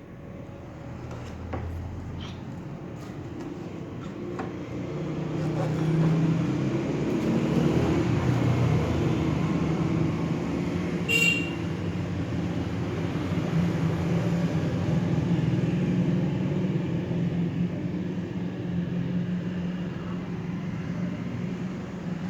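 Steady low rumble of a running motor vehicle, growing louder over the first few seconds and then holding. A single short high beep sounds about halfway through.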